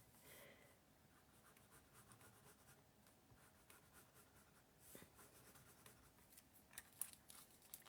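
Near silence with faint rustling and a few light taps of cardstock being handled and positioned on a work surface.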